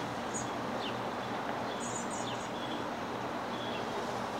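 Steady outdoor background noise with a few short, high bird chirps scattered through.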